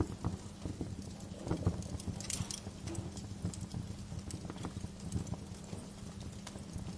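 Wood fire crackling in a fireplace: irregular sharp pops and snaps over a steady low rumble of burning, with a short hiss about two and a half seconds in.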